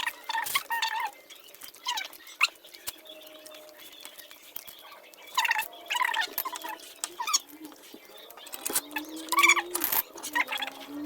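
Close-up eating sounds: chewing and mouth smacking in short, irregular bursts with small clicks.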